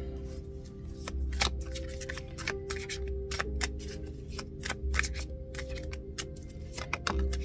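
Tarot cards being shuffled and handled, an irregular run of sharp card flicks and snaps, over soft background music with sustained tones.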